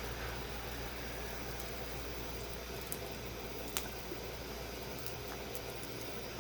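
Wood campfire burning: a steady hiss with a few sharp crackling pops, the loudest a little past the middle.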